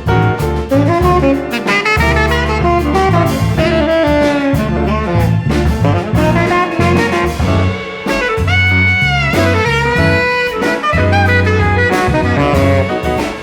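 Jazz-funk ensemble playing, with tenor saxophone and brass over bass and drums. A long held note bends in pitch about two-thirds of the way through.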